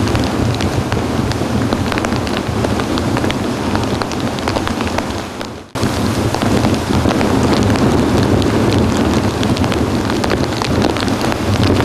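Tropical-storm rain hitting close to the camera in many sharp drop ticks, over a dense, steady rush of wind-driven surf. The sound dips away and cuts abruptly back in a little before halfway.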